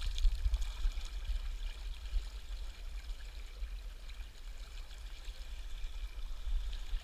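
Steady rush of river water running near a power dam, with an uneven low rumble underneath.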